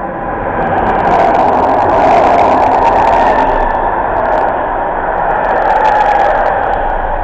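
Class 482 electric locomotive and its container train running past, a steady rumble of wheels on rails that swells over the first second, with bursts of crackling and clicking.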